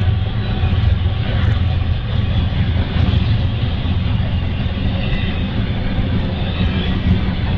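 Double-stack intermodal freight train rolling past at speed: a loud, steady rumble of wheels on rail.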